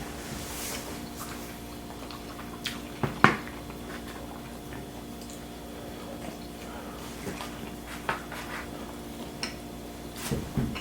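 Eating and handling food at a table: wet chewing with scattered clicks and knocks of utensils and takeout containers. One louder knock comes about three seconds in, and a few more near the end, over a steady low room hum.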